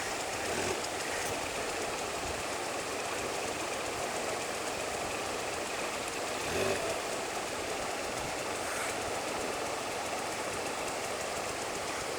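Motorcycle engine idling steadily in the distance, with a small swell about six and a half seconds in.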